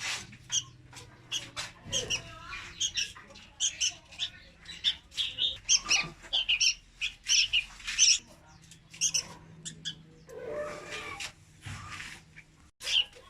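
Young red-whiskered bulbul calling: a rapid run of short, sharp chirps, with a few lower drawn-out calls mixed in.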